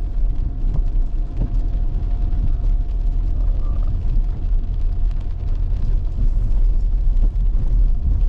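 Vehicle on the move: a loud, steady low rumble of engine and road noise with a faint steady hum above it.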